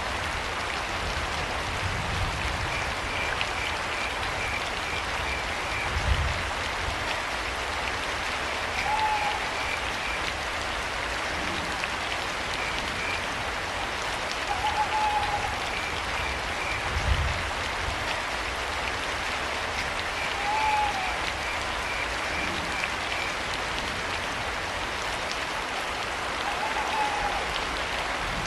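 Steady rain with crickets chirping in short pulsed trains, and a brief rising-and-falling owl call repeated four times, about every six seconds. Two dull low thuds come about a third and two thirds of the way in.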